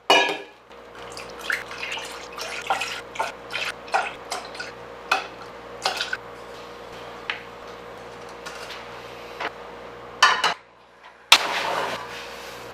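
Kitchen sounds of cooking prep: a quick series of light clicks and knocks of utensils and dishes over a faint steady hum. Near the end, after a brief pause, a short rush of running water.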